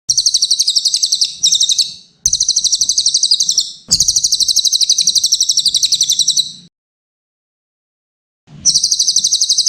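A cililin (hanging parrot) singing high-pitched rapid trills in bursts of one to three seconds. A pause of nearly two seconds comes before a last burst near the end.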